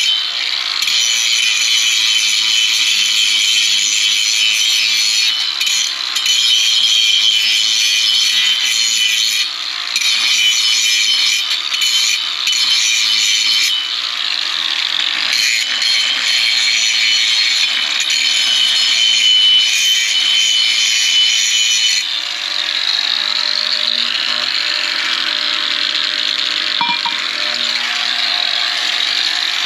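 A power tool cutting or grinding, a continuous high rasping whine that changes pitch about two-thirds of the way through.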